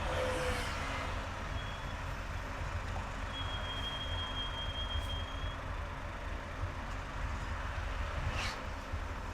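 Steady low road and engine rumble of a car driving in highway traffic. A faint, thin, high-pitched tone sounds briefly about a second and a half in, then again for about two seconds from about three seconds in. A short whoosh comes near the end.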